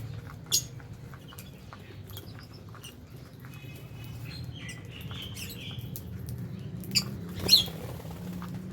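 A flock of lovebirds chirping: scattered short, sharp, high chirps, with the loudest coming about half a second in and two near the end, and softer chatter in the middle, over a steady low hum.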